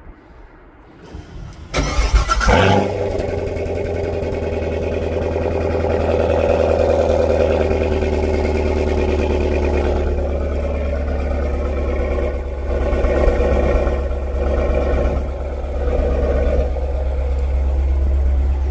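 Chevrolet Corvette C7's 6.2-litre V8 cold-starting: about two seconds in, the starter cranks briefly and the engine catches with a loud flare. It then settles into a steady, super loud idle, with a few small swells later on.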